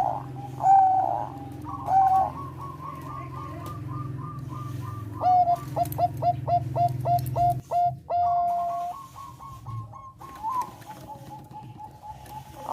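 Thai zebra doves (perkutut bangkok) cooing: bursts of short, staccato coos, with a rapid run of clipped notes in the middle and a longer held note just after it.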